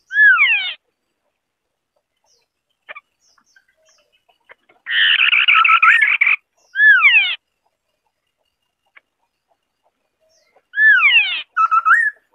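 White-browed scimitar-babbler calling in bouts a few seconds apart: quick runs of rapidly repeated chattering notes and sharply falling slurred whistles.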